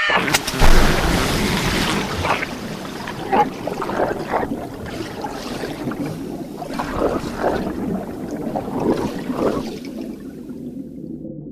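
Sea water splashing and gurgling close to the microphone, with many short bubbly splashes. About ten seconds in the sound turns dull and muffled, the high end gone.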